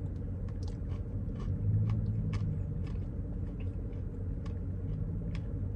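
A person eating ice cream: scattered small clicks and smacks of chewing and a spoon, over a steady low rumble.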